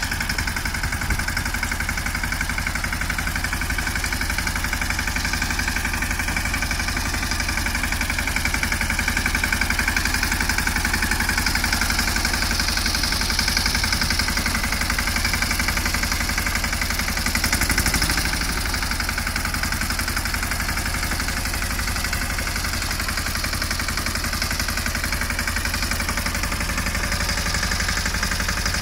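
Tractor engine running steadily at idle with an even, rapid knock, rising briefly about eighteen seconds in.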